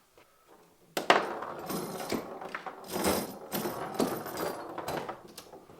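Foosball table in play: a rapid, irregular clatter of knocks and clacks from the ball, the players on the rods and the rods themselves, starting suddenly about a second in.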